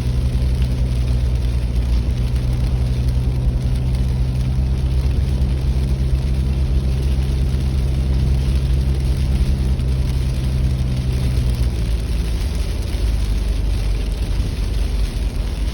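A car on the move: a steady engine hum under even road noise. About twelve seconds in, the engine note drops and changes.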